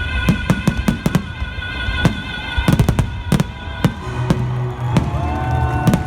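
Fireworks bursting in quick, irregular bangs, with clusters of reports about a second and three seconds in, over the show's soundtrack music.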